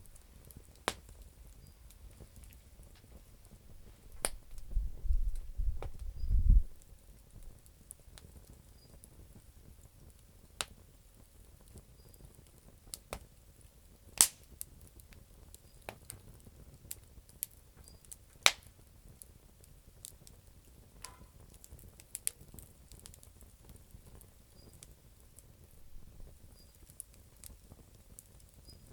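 Campfire of damp firewood crackling, with scattered sharp pops at irregular intervals, a few much louder than the rest. A low rumble for a couple of seconds near the start.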